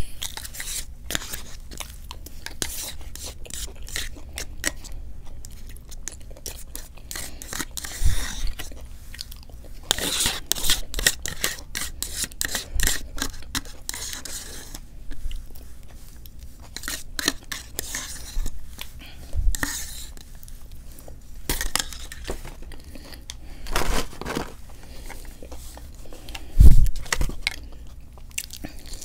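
Close-miked eating: wet chewing, mouth clicks and crunchy bites of fried food. A few louder knocks come about 8, 19 and 27 seconds in.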